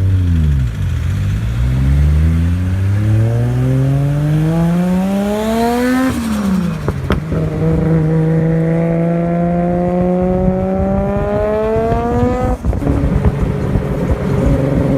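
Modified Nissan Skyline R34 GT-R's twin-turbo RB26 straight-six pulling hard. The revs climb steadily for about five seconds, drop at a gear change, then climb more slowly through the next gear. Near the end they fall back and hold lower, with a single sharp click in the middle.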